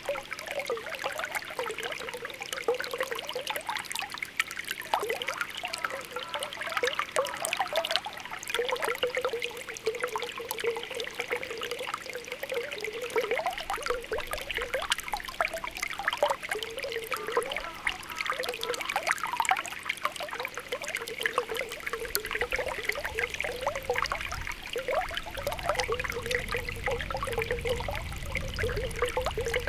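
Spring water welling up from the ground, bubbling and popping continuously with many small gurgling plops. A low rumble comes in faintly near the end.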